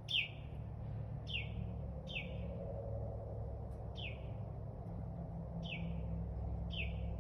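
A small songbird calling: a short, sharp chirp that falls in pitch, repeated roughly once a second, over a steady low hum.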